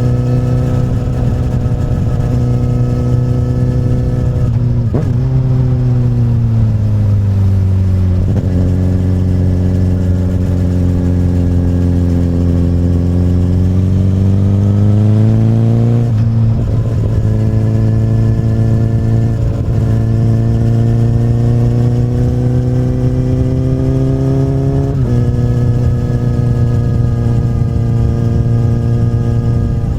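2008 Honda CBR1000RR's inline-four engine through an Akrapovic carbon slip-on exhaust, running at steady road speed. Its pitch falls away from about five to eight seconds in, holds low, then climbs again around fifteen seconds. Short steps in pitch come near seventeen, twenty and twenty-five seconds.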